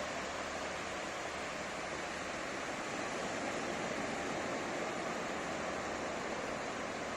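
Ocean surf on a beach: a steady, even rush of water noise with no single wave standing out.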